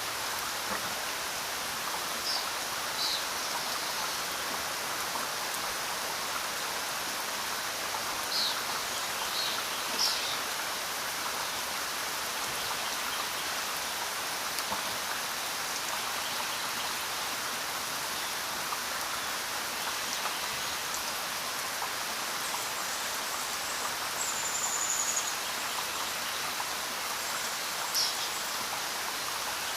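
Steady rainfall: an even, unbroken hiss. A few short, high-pitched sounds stand out over it near the start, in the middle, and near the end.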